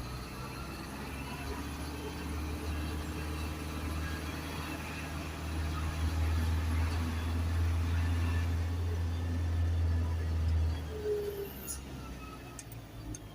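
Isuzu garbage truck's diesel engine running, a low steady drone that grows louder midway and then eases off about eleven seconds in.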